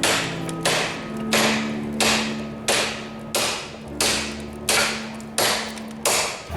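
Hammer blows on hot tool steel over an anvil, forging a nail header: about ten strikes at a steady pace of roughly three every two seconds, each with a short ring.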